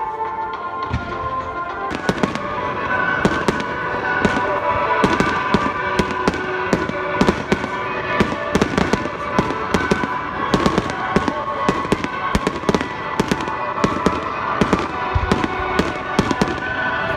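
Fireworks display going off: rapid, dense bangs and crackling from about two seconds in, over music playing with it.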